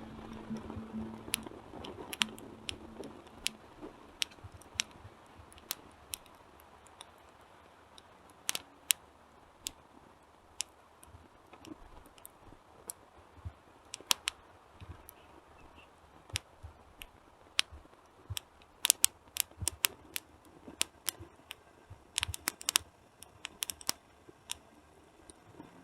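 Wood fire crackling: irregular sharp pops and snaps over a faint low hiss, coming in quick clusters about two-thirds of the way through and again near the end.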